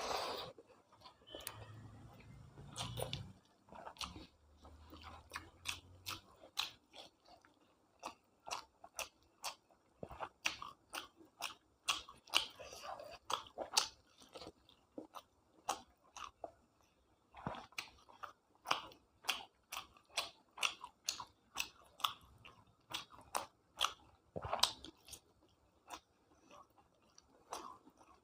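A person chewing food close to the microphone: a steady run of short, crunchy chews and bites, about two to three a second, with a louder bite right at the start.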